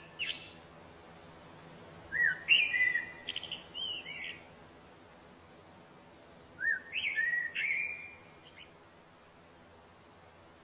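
A songbird singing short phrases of quick, sliding whistled notes, one brief phrase at the start and then two longer ones about four to five seconds apart, with quiet pauses between.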